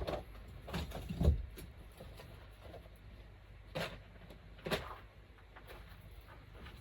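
A few scattered knocks and clunks of hard objects being handled, the loudest about a second in.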